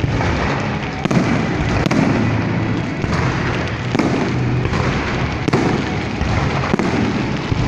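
Aerial fireworks going off in a display: a continuous dense crackle of bursts with sharper bangs roughly once a second.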